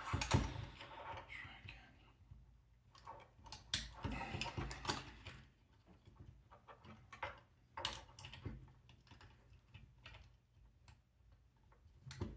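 Scattered small clicks and taps of plastic robot parts being handled, as the Reachy Mini's servo motors are pushed back down into their mounts.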